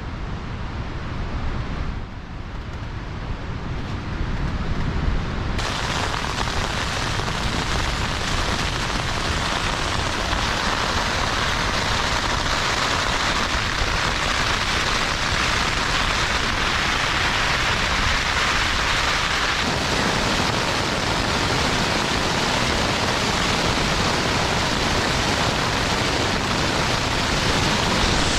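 Heavy rain pouring down in strong wind, a dense steady hiss over the low rumble of wind buffeting the microphone; the rain hiss comes in suddenly about six seconds in.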